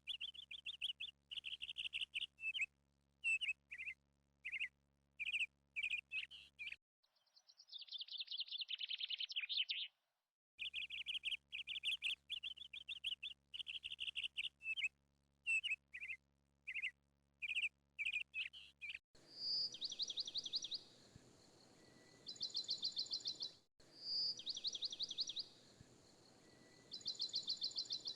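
Birds chirping in quick runs of short calls, broken by brief gaps; in the second half a bird repeats a fast, high trill four times over faint outdoor background noise.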